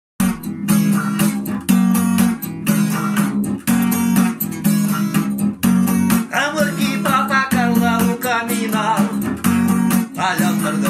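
Acoustic guitar music with a steady strummed rhythm. A wavering melody line comes in about six seconds in.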